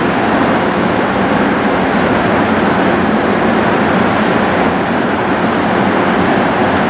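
Heavy downpour of rain falling steadily and evenly, with no thunderclap.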